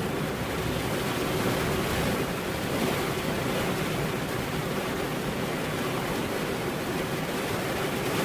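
Steady rainfall, an even dense hiss.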